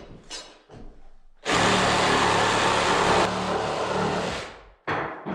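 A power tool runs for about three seconds, a dense, loud noise that starts suddenly and fades away, with wooden knocks before and after it.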